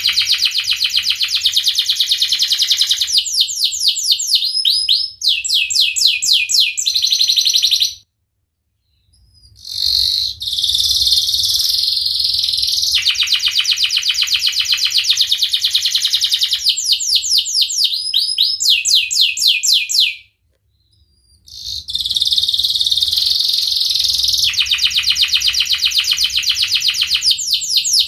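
Domestic canary singing long rolling songs of fast, high trills and quick chirping phrases that shift pitch from one phrase to the next. It sings in three long bouts broken by two brief silences, about eight seconds in and again about twenty seconds in.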